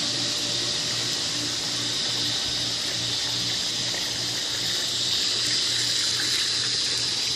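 Steady rush of water circulating through a pool's solar heater plumbing, with a low pump hum that pulses about twice a second.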